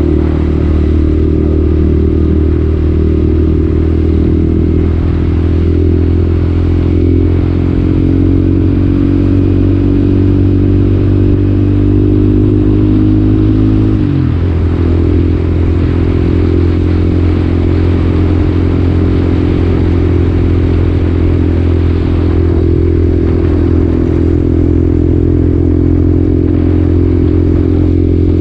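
Motorcycle engine running under way, its note climbing steadily as the bike gathers speed, then dropping suddenly about halfway through as it shifts up a gear, and running steady after that.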